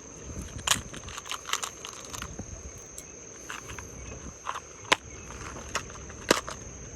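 A steady high-pitched insect drone, with scattered clicks and knocks through it, the loudest about five and six seconds in.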